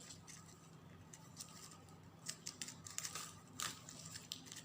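Satin ribbon being pulled tight through folded ribbon strands by hand: faint, irregular crisp rustles and small clicks, bunched most thickly in the middle of the stretch.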